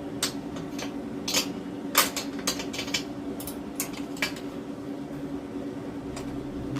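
Metal hand tools, a 14mm socket wrench and spanner, clinking and clicking irregularly against metal while the motorcycle's rear exhaust bolt is worked loose.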